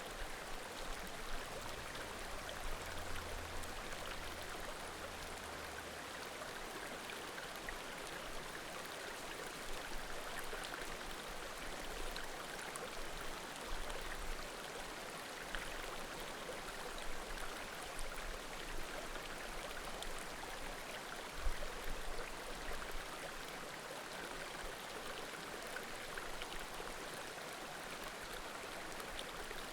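Small mountain creek murmuring steadily, with faint pops of burning firewood scattered through it. A brief low thump about two-thirds of the way through.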